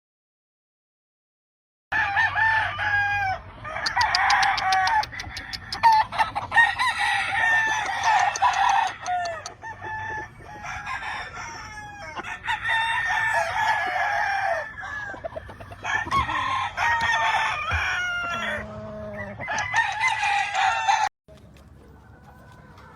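Several roosters crowing, their calls overlapping one after another. The crowing starts about two seconds in and cuts off suddenly near the end, leaving a faint background.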